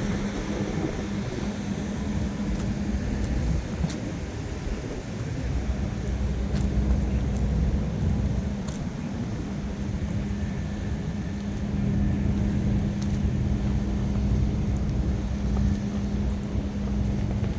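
A heavy diesel truck engine running: a low rumble with a steady hum that drops out about a second in, returns a few seconds later, and dips briefly again near the middle.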